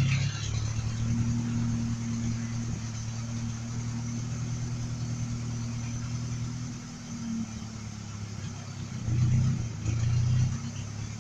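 Truck engine idling steadily after it was finally got to start, with the engine note swelling twice briefly near the end.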